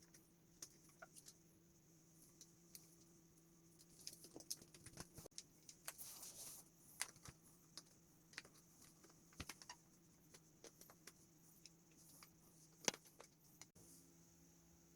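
Faint, scattered clicks and taps of small hard parts being handled, irregular and spread throughout, with one sharper click about two thirds of the way through, over a low steady hum.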